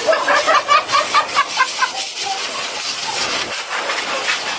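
A dog whimpering in a quick run of short, high cries for about two seconds, over a steady rushing hiss of a grooming blow dryer that carries on alone after the cries stop.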